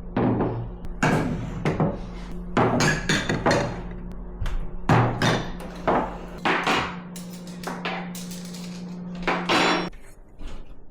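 A series of irregular knocks and clatters, over a steady low hum that stops near the end.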